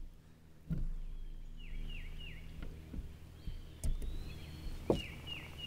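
A bird singing a phrase of three short downward-sliding whistled notes, twice, about three seconds apart. A few sharp clicks and knocks of handling on the kayak come in between, the loudest a little before and about five seconds in.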